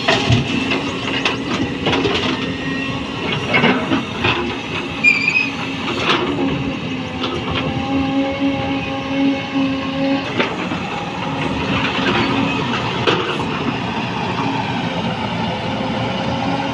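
225LC tracked excavator running steadily at working revs, with irregular metallic clanks and knocks from its bucket and tracks as it digs and loads soil into a tipper.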